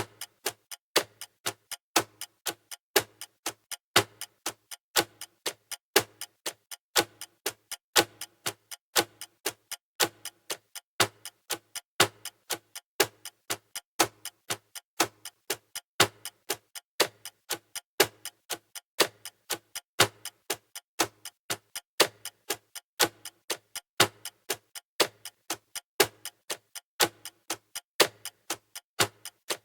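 Steady clock-style ticking of a countdown timer, about two ticks a second.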